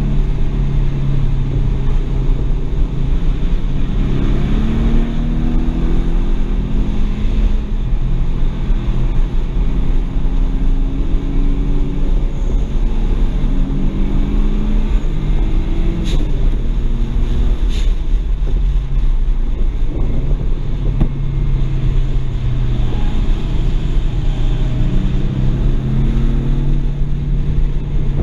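BMW 335i's N54 twin-turbo inline-six heard from inside the cabin at track pace, its engine note rising and falling again and again under acceleration and lift-off, over steady road and wind noise. Two short clicks come about 16 and 18 seconds in.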